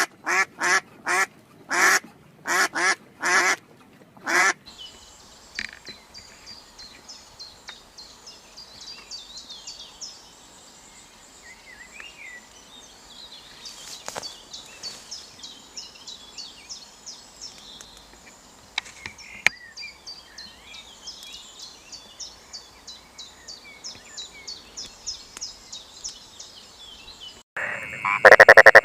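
Duck quacking, a quick run of about ten loud quacks over the first four seconds or so. Faint, high, repeated chirping follows for most of the rest. A loud call starts just before the end.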